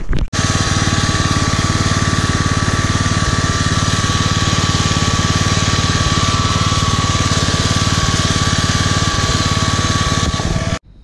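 Small petrol engine running loud and steady at a constant speed, cut off abruptly near the end.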